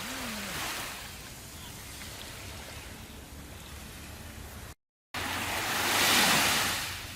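Ocean waves washing in: a steady hiss of surf with a swell in the first second, a brief cut to silence about two-thirds through, then a bigger wave breaking, loudest about six seconds in.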